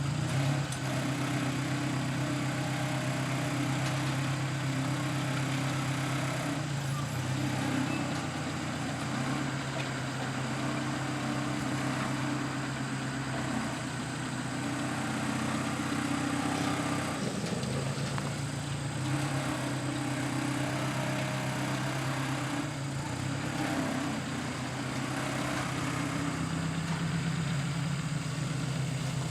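Ford Model 600 tractor's four-cylinder engine idling steadily, its speed shifting briefly a few times.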